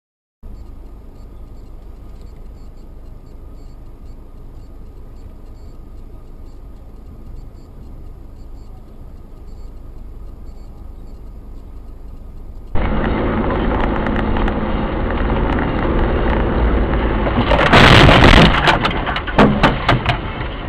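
Steady road and engine noise of a car driving, heard through a dash camera. About thirteen seconds in it cuts to a louder recording of driving. A few seconds before the end comes a loud crash followed by a rapid string of sharp knocks and clatters: a vehicle collision.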